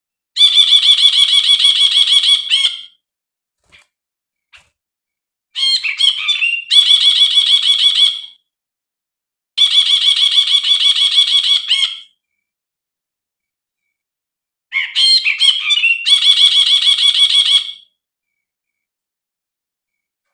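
Brinji (bulbul) calling in four separate bouts, each a rapid run of about seven high, repeated notes a second lasting two to three seconds, with pauses between bouts. Two of the bouts open with a short, more varied phrase.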